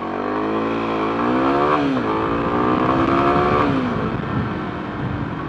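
Engine of a motor vehicle accelerating: its pitch climbs, drops sharply at a gear change about two seconds in, climbs again, then falls away as it eases off.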